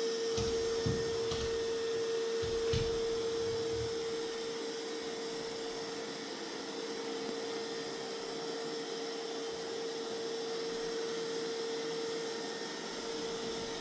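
Mova Z60 robot vacuum running, a steady whine over the hiss of its suction, with a few faint knocks in the first three seconds.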